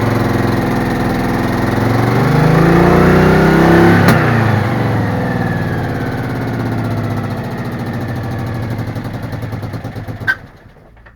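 Citroën Méhari's air-cooled flat-twin engine running and being revved: the pitch rises about two seconds in, then falls back to a steadier run. Near the end there is a sharp click and the engine sound drops away.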